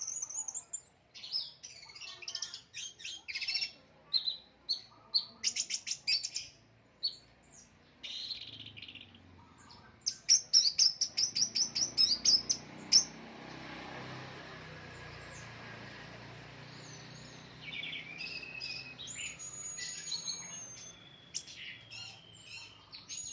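Orange-headed thrush singing a varied song of quick chirps and trills, with a run of fast repeated notes about halfway through and long, sliding whistled notes near the end.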